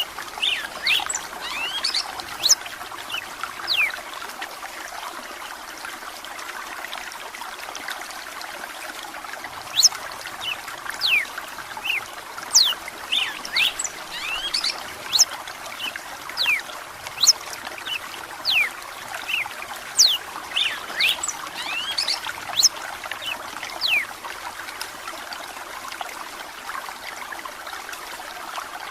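Red-cowled cardinal (galo-de-campina) singing a run of short, sharp whistled notes, many sweeping down in pitch, over the steady trickle of running water. The song stops a few seconds before the end, leaving the water.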